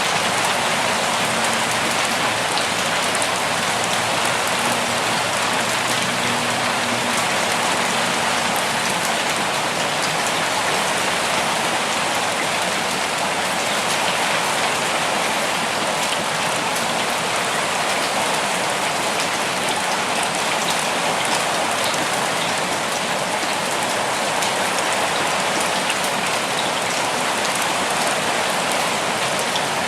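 Steady rain falling, an even hiss of many drops with no breaks or swells.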